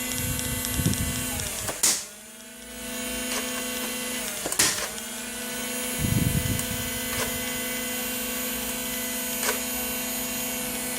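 Battery-powered motor of an electric foam dart gun running with a steady whir. Sharp clicks come about two and four and a half seconds in; the motor sound drops briefly after the first click and then comes back up. A fainter click follows near the end.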